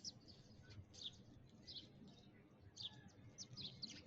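Sparrows chirping faintly: quick, high, falling chirps that come several times a second, irregularly spaced.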